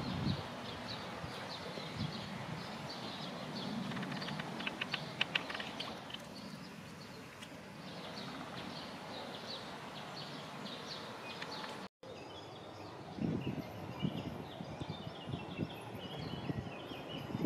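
Small birds chirping repeatedly over a steady outdoor hiss, with a short run of clicks about four seconds in. The sound drops out for an instant about twelve seconds in and resumes with more chirping and some low thumps.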